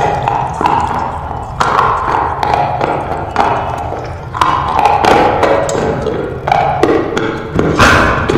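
Close-up crunching of slate pencils being bitten and chewed: a quick run of hard, sharp snaps and gritty grinding, in short pieces that change every second or so.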